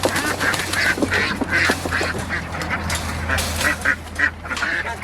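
A flock of domestic ducks quacking over and over, many short overlapping calls, while being rounded up. The loud quacking comes from the hens (the drakes don't quack).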